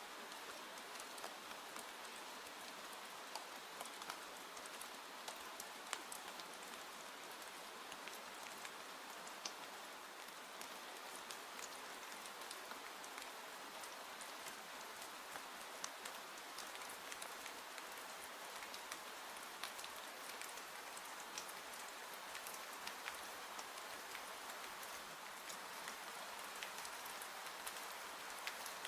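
Steady rain falling, an even hiss scattered with many light, sharp ticks.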